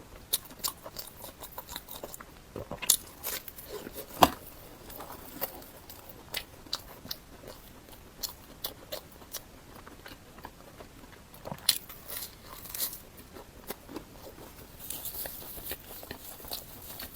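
Close-miked eating: a person biting and chewing food, with many short crunchy clicks and smacks. The loudest crunch comes about four seconds in.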